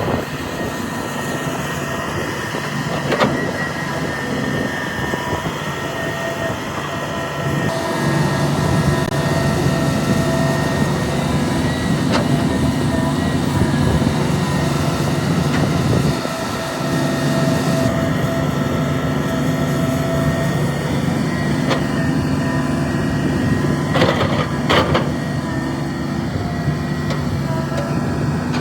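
Diesel engine of heavy earthmoving machinery running steadily. It works harder about eight seconds in and eases briefly near sixteen seconds. A few sharp metallic knocks sound over it, two of them close together about twenty-four seconds in.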